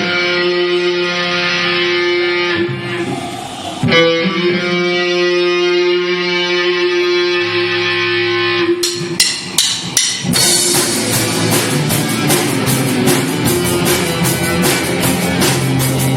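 Live rock band in an instrumental passage: electric guitar holds sustained chords, with a new chord struck about four seconds in. A few sharp drum hits near nine seconds bring the full band in with a steady drum beat.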